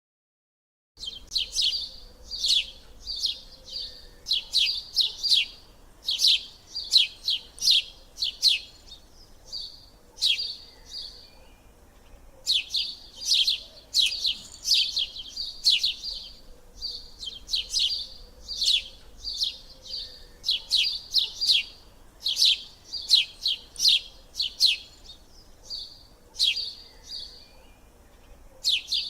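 Small birds chirping: fast runs of short, high chirps in clusters, broken by brief pauses, starting about a second in.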